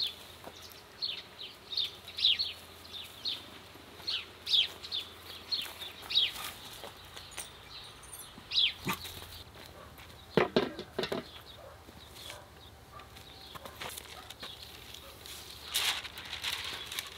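Birds chirping, short high downward-sliding chirps repeated every half second or so, fading out after about nine seconds. There are a few sharp knocks about ten seconds in, and paper rustling near the end as baking paper is unrolled.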